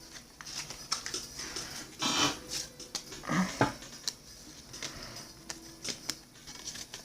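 Baseball trading cards being flipped through and slid against each other by hand: light scattered clicks and rustles, with louder brushes about two seconds and three and a half seconds in.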